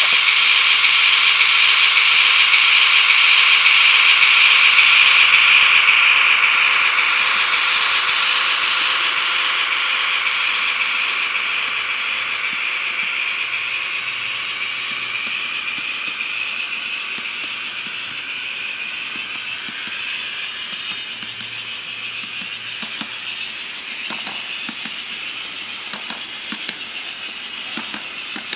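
HO-scale model of an EF210 electric locomotive running on its track: a steady, rattly whirr of small wheels and gearing. It is loudest about five seconds in, then fades gradually, with a few light clicks near the end.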